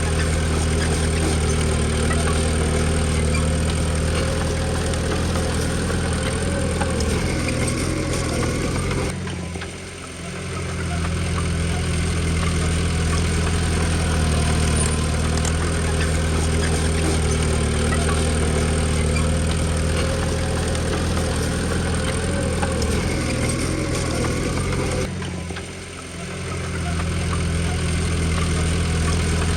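Heavy diesel engine of earthmoving machinery running steadily at a low, even speed, dropping away briefly twice before coming back.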